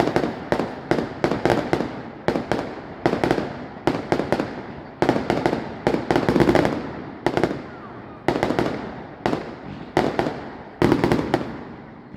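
Aerial fireworks going off in a rapid run of sharp bangs, several a second, each echoing away, coming in waves with short lulls between.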